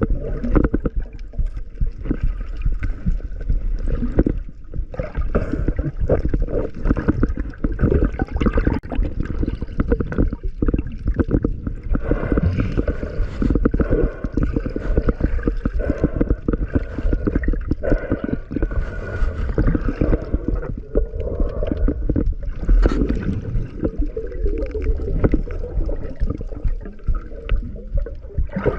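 Underwater bubbling and gurgling water against the microphone, with dense irregular crackle over a constant low rumble.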